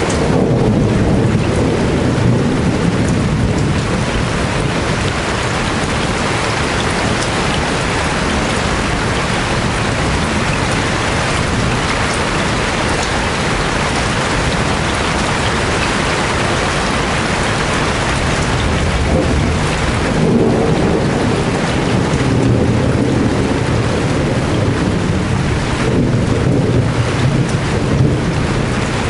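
Heavy rain falling steadily. Low rolls of thunder come near the start and again about two-thirds of the way through.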